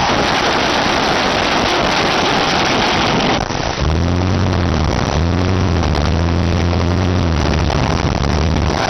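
A vehicle engine revving in held bursts over a constant loud rush of noise. From about four seconds in, its low note swoops up at the start of each burst and holds, with a short drop near the five-second mark and again near the end.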